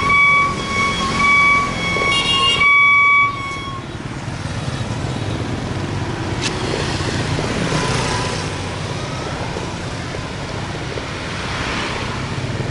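Street traffic heard from a moving motorbike: steady road and wind noise. For the first three or four seconds a high beeping tone sounds over it, repeating several times.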